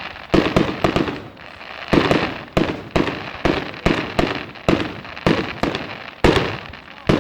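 Fireworks display: a run of sharp bangs from bursting aerial shells, about one or two a second, each followed by a crackling, fading tail.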